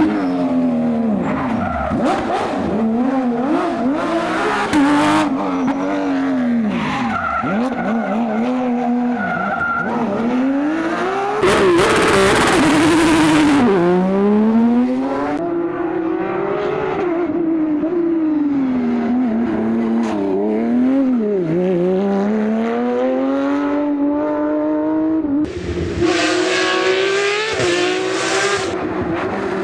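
Porsche sports car engine being driven hard, its pitch climbing under acceleration and dropping back again and again as the car shifts and brakes. Two stretches of louder, hissier noise come about twelve seconds in and again near the end.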